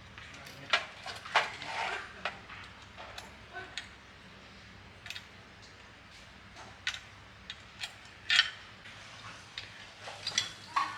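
Irregular metallic clinks, clicks and knocks of tools and metal parts being handled during repair of an animal feed slicer, loudest about a second in and again past the middle.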